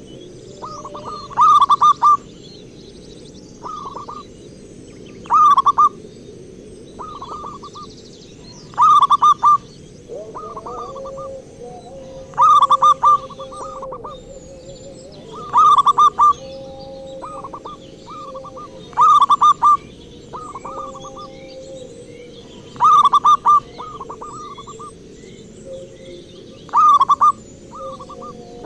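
Zebra dove (perkutut) cooing: short phrases of rapid notes, the loudest coming about every three and a half seconds with softer phrases between, over faint chirps of other birds.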